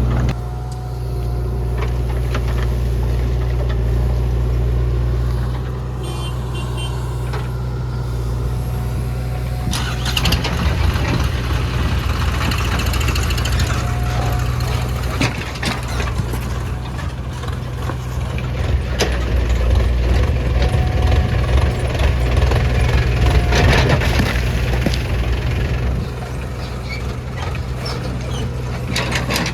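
JCB 3DX backhoe loader's diesel engine running steadily under load, getting louder and rougher in two stretches, about ten seconds in and again about twenty seconds in, as it works.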